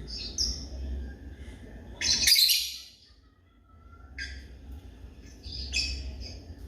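African lovebirds calling: short shrill chirps, with one loud harsh screech about two seconds in and more chirps later.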